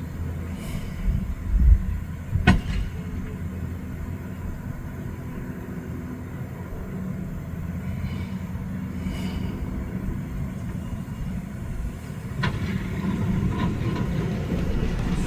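High-rail truck's engine running steadily on the rails, with a couple of sharp metallic clanks about two seconds in and another near the end.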